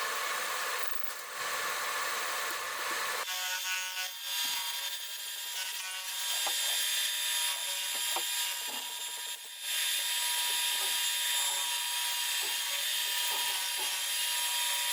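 A valve-seat boring machine's cutter cutting the seat pockets in an aluminium cylinder head: a steady high-pitched cutting hiss with a few light clicks. The sound changes about three seconds in.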